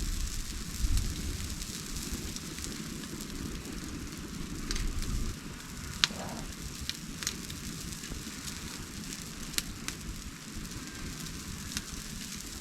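Wood bonfire burning, with a steady hiss and scattered sharp crackles and pops, the loudest pop about six seconds in. A low rumble underlies the first few seconds.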